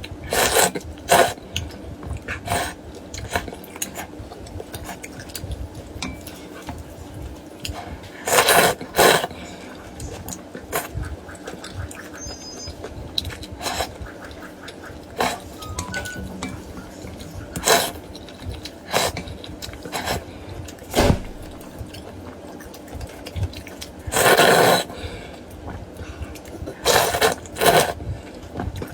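Close-miked eating of noodle soup: irregular slurps of vermicelli and broth, two of them longer, about a third of the way in and near the end, with chewing and mouth sounds between.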